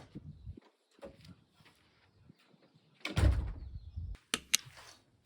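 Household knocks: a few faint taps, then a low rumble lasting about a second, followed by two sharp clicks.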